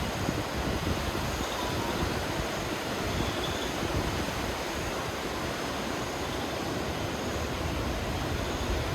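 Strong wind blowing through forest trees: a steady rush, with a gusty low rumble from wind buffeting the microphone.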